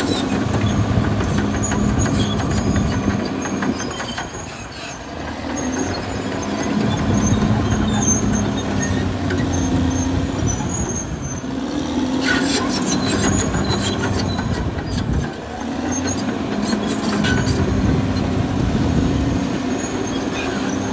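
Caterpillar D6R XL crawler bulldozer working: its diesel engine running under load, with the squeal and clank of its steel tracks. The sound eases off briefly twice, about four seconds in and again about fifteen seconds in.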